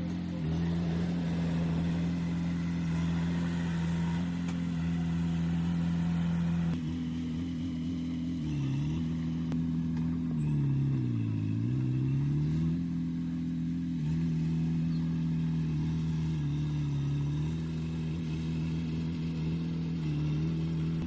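Heavy diesel engine of earthmoving equipment running steadily, its pitch sagging and recovering several times as it takes load, most deeply about halfway through.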